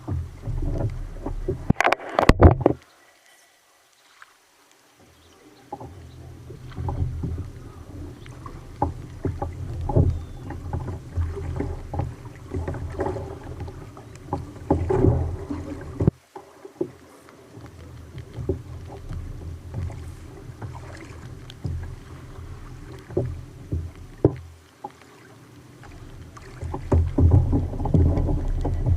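Water sloshing and splashing against a fishing kayak on a rough sea, with an uneven low rumble and scattered knocks from the hull and gear. The sound drops almost to nothing for about two seconds near the start, and briefly twice more later.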